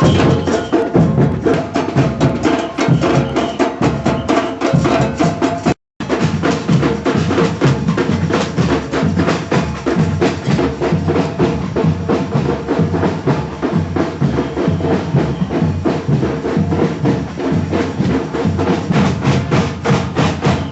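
Street drum band playing a fast, steady beat on snare and bass drums. The sound cuts out completely for a moment just under six seconds in, then the drumming carries on.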